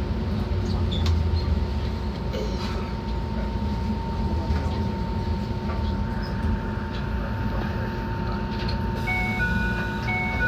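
Enoden electric train running on the rails, heard from inside the car: a steady low rumble with a constant whine and scattered clicks. Near the end come a few short alternating electronic tones.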